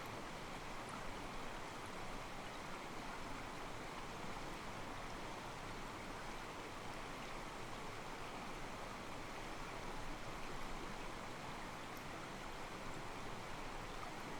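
Mountain stream flowing over rocks, its water sloshing softly against them in a steady rush.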